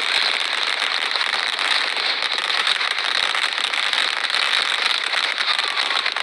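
Diwali firecrackers going off in a dense, unbroken run of rapid crackling pops, steady and loud.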